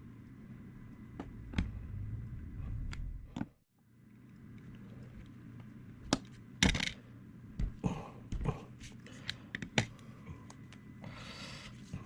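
Small hard objects and tools handled on a work surface: scattered sharp clicks and taps, thickest in the second half, with a short scrape near the end.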